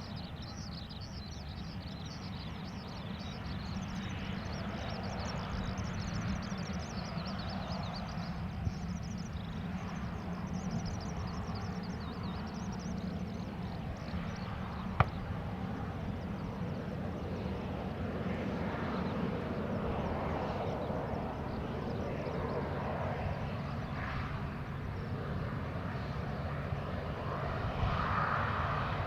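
Boeing 737-800's CFM56-7B jet engines running at taxi power, a steady hum and rumble that swells near the end. Birds chirp high above it in the first half, and a single sharp click sounds about halfway through.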